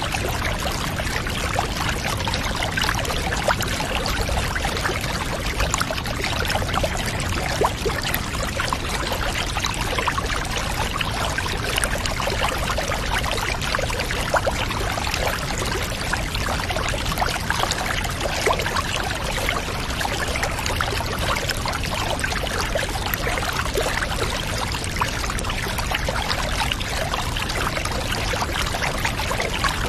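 Water running steadily into a bathtub: a continuous pouring trickle with many small splashes, unchanging throughout.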